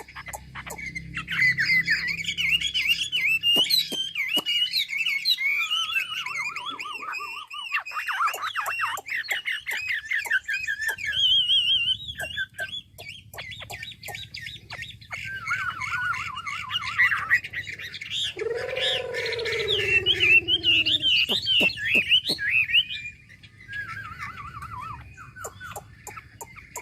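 Chinese hwamei (melodious laughingthrush) singing a long, varied run of loud whistled phrases and rapid trills. About two-thirds of the way through comes a lower, falling call.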